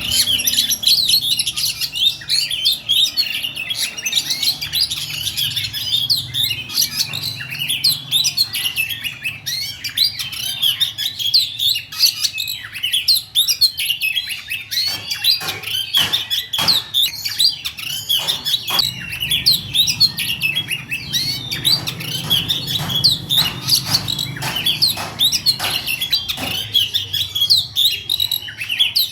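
A caged songbird singing a fast, tight rolling song of dense chirps and trills without a break. From about halfway in, sharp clicks are mixed into the song.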